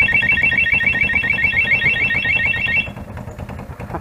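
Electronic alarm sounding as a rapid string of high beeps, about ten a second, that stops about three seconds in. An engine idles underneath.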